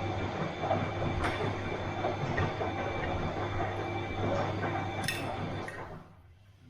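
Bosch washing machine running: a steady hum with a high whine and scattered clicks and knocks from the drum. The sound drops away sharply about six seconds in.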